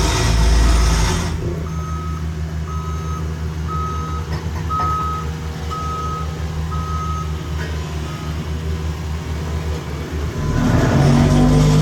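Backup alarm on heavy paving equipment beeping about once a second over the rumble of a diesel engine. The beeping stops about eight seconds in, and the engine grows louder near the end.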